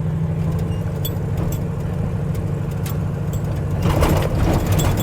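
Chevy pickup truck driving on a washboarded dirt road: steady low engine and road rumble, with rattling and shaking noise growing louder near the end as the truck bounces over the washboard ruts.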